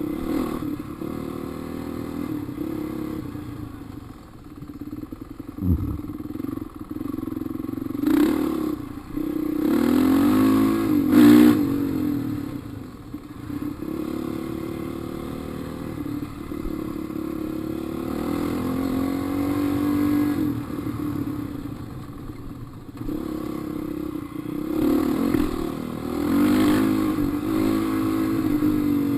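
Dirt bike engine being ridden on a trail, its revs rising and falling again and again as the throttle is worked. There is a sharp thud about six seconds in, and louder surges of revs a few seconds later.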